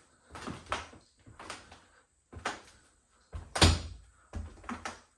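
Footsteps thudding on the wooden floor and steps of an old wood caboose, about eight uneven knocks with the heaviest one about three and a half seconds in.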